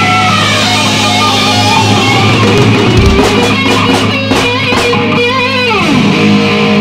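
Rock music led by electric guitar: held notes with vibrato, then a long slide down in pitch near the end before the music stops abruptly.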